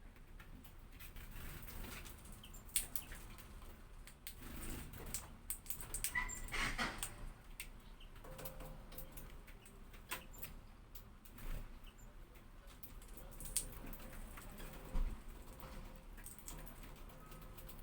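Hawfinch moving about: scattered faint clicks and rustles, with a short chirp-like sound about six to seven seconds in.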